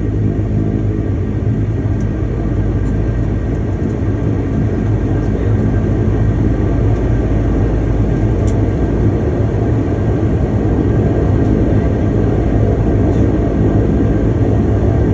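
Twin turboprop engines of a de Havilland Canada Dash 8-200 (Pratt & Whitney Canada PW123) and their propellers running, heard inside the cabin as a steady, low drone with a propeller hum in it. It gets slightly louder about halfway through.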